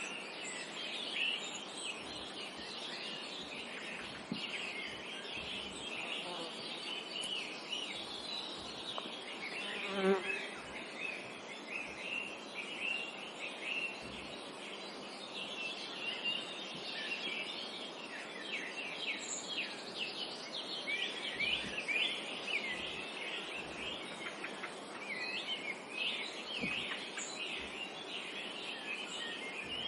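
A chorus of small songbirds chirping and twittering over a soft forest background hiss. About ten seconds in, a flying insect buzzes briefly past.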